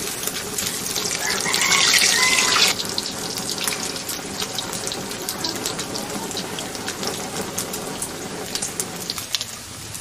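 Pork pieces frying in oil in a wok: a steady sizzle with many small crackles of spattering oil. It is loudest for the first few seconds and drops suddenly a little under three seconds in.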